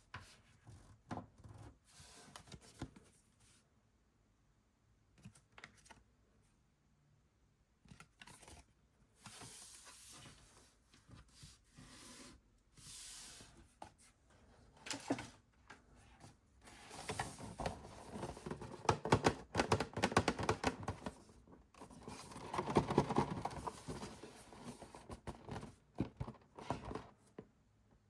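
Hands opening blind-box toy packaging: scattered small clicks and taps with a few short tearing or rustling sounds, then, past the middle, a longer stretch of dense crinkling and handling noise from the wrapping.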